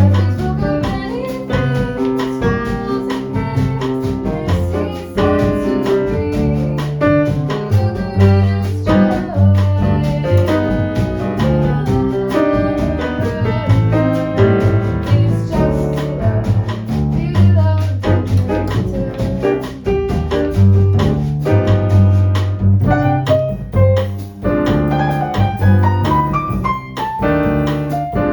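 Small jazz group playing live: piano leading over a bass line and drums.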